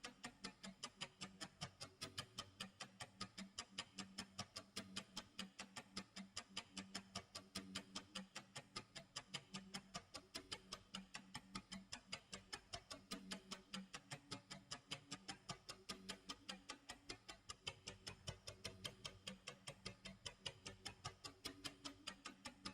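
Clock tick-tock sound effect: a fast, even run of faint ticks that does not change pace.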